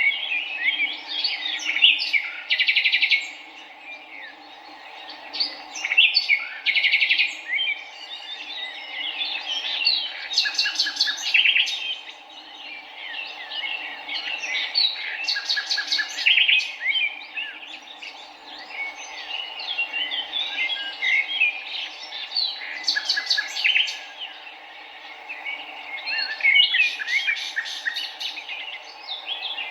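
Several songbirds chirping and singing in a dense, overlapping chorus, with bursts of rapid trilled notes every few seconds, over a steady low background hum.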